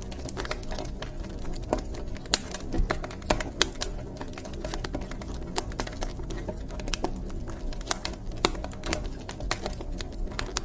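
Wood fire crackling in a fireplace: irregular sharp clicks and snaps, with a few louder pops, over a steady low rumble of the burning fire.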